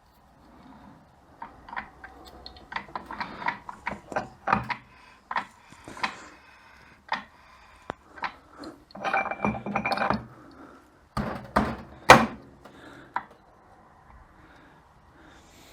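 Metal parts of a 42RE automatic transmission's overdrive assembly clinking and knocking as they are handled and fitted by hand: irregular clicks and rattles, with one sharp knock about twelve seconds in.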